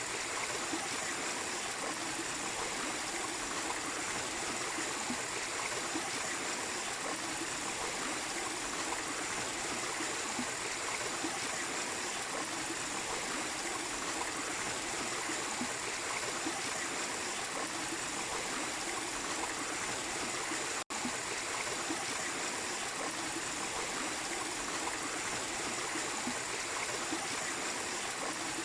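Small waterfall splashing and trickling steadily over rocks. The sound cuts out for a split second about 21 seconds in.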